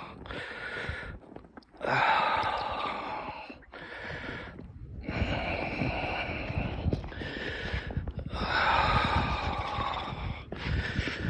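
A person breathing hard and loudly close to the microphone, with long noisy breaths of one to three seconds each and short pauses between them, over a low rumble of wind on the microphone.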